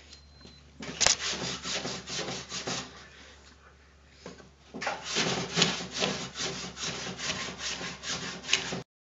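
60-grit sandpaper wrapped around a wooden sanding block, scraped back and forth in quick strokes over a car door panel, about three strokes a second. The strokes stop briefly midway, then start again and cut off suddenly near the end.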